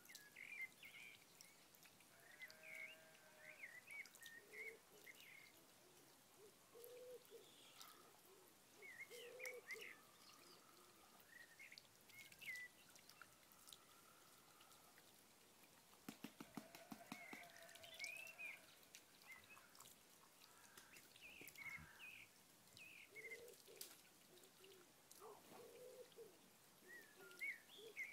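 Faint outdoor ambience of scattered short bird calls and chirps, coming irregularly throughout, with a few soft clicks about halfway through.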